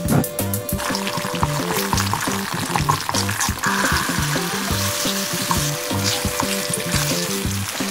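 Black bean paste (chunjang) and diced pork sizzling in hot oil in a wok, stirred with a wooden spatula that taps and scrapes the pan. The sizzle grows stronger about halfway through as the pork goes in. Background music plays underneath.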